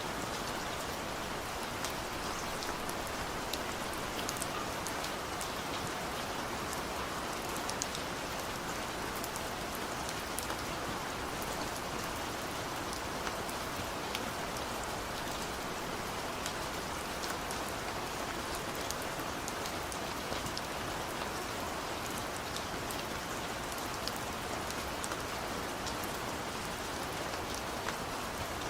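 Steady rain falling: a dense, even hiss with many individual drops ticking sharply through it.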